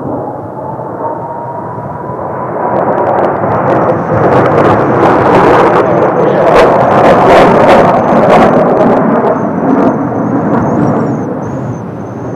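Kawasaki T-4 jet trainers passing by: the jet noise swells to a peak in the middle, with sharp crackles at the loudest, then fades away.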